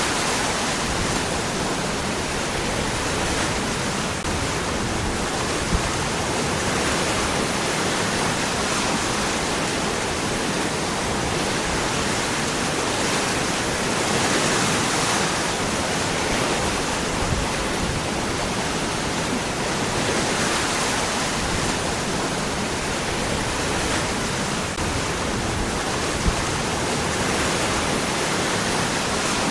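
Waterfall: water pouring over and between rocks in a steady, full rushing noise.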